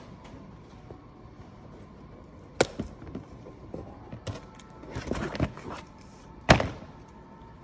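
The vehicle's original floor-mat retention snap being worked off by hand: two sharp clicks, one between two and three seconds in and a louder one near the end, with rustling and small knocks of handling between them.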